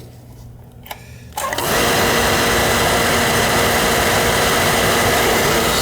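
Beckett oil burner motor switched on about a second and a half in and running steadily with a fan rush and a steady hum, the burner run to see whether its fuel pump delivers any oil.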